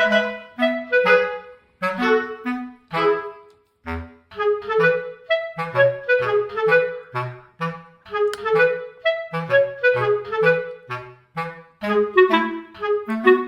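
Background music: a light, bouncy tune led by a clarinet-like woodwind playing short notes over a bass line.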